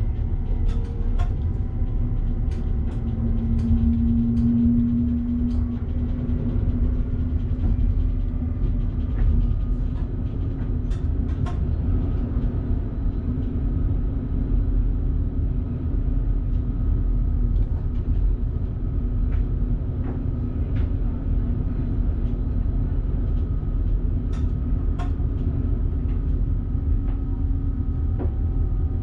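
Passenger train running, heard from the driver's cab: a steady low rumble with a held humming tone and scattered sharp clicks.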